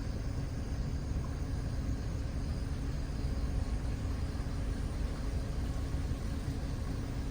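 A vehicle engine running steadily, with a low rumble and a constant hum.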